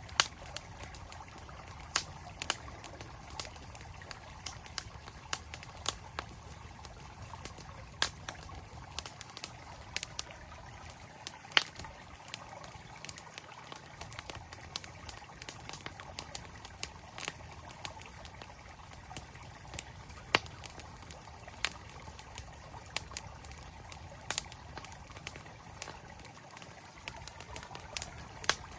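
Campfire crackling, with sharp irregular pops and snaps, over the steady rush of a flowing stream.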